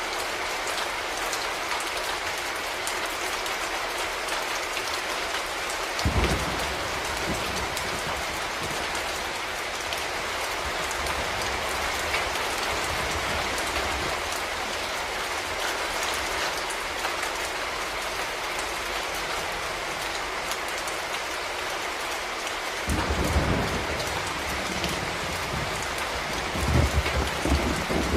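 Steady rain falling, an even hiss of drops with a few short, low rumbles about six seconds in and twice near the end.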